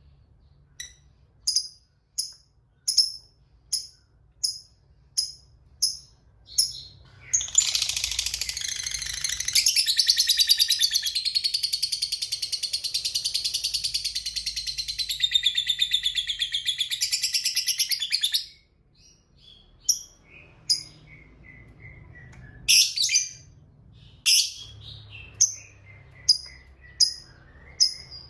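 Lovebird calling: sharp single chirps repeated every second or so, then a long, rapid chattering trill, the 'ngekek panjang', lasting about ten seconds. After the trill come a falling run of short notes and more sharp chirps.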